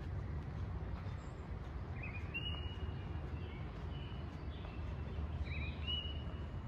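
A songbird calling twice, each call a quick upward note that runs into a short held whistle, the calls about three and a half seconds apart, over a steady low outdoor rumble.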